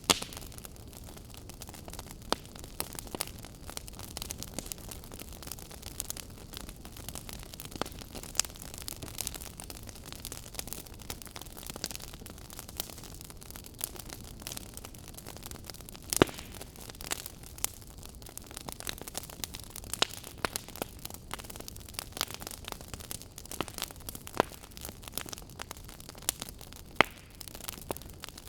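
Wood fire crackling in a fireplace: a steady low rush of burning with irregular sharp pops and snaps, a couple of louder pops about sixteen seconds in and near the end.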